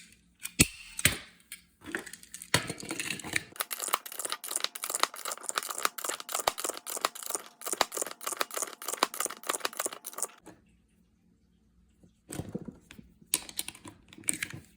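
Hacksaw cutting through the plastic fin of a magazine follower: a fast, rasping run of short saw strokes that lasts several seconds and then stops, with a few handling clicks and knocks before and after.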